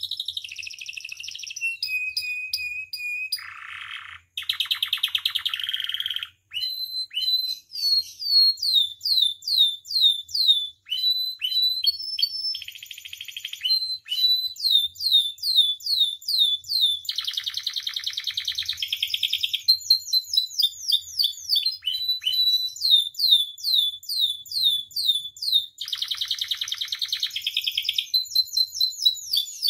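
Domestic canary singing a full, continuous song: series of quick down-slurred notes, short held notes, and three buzzy rattling trills. It is the loud, energetic 'gacor' singing that is played to other canaries to tutor them or set them singing.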